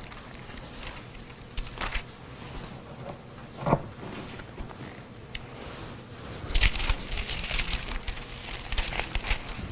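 Thin paper pages rustling and crinkling as Bibles are leafed through to a passage, with a flurry of page turns in the second half and a brief squeak about a third of the way in.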